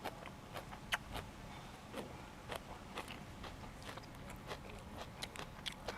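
Close-up chewing and biting of food, with short crisp crunches coming irregularly, a few a second.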